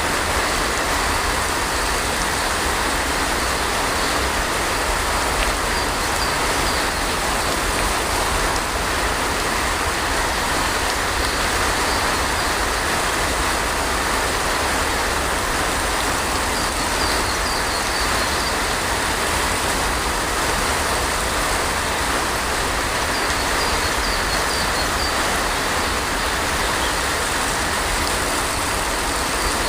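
Steady heavy rain, an even unbroken hiss with a constant low rumble underneath. A few faint, short, high chirps come through it now and then.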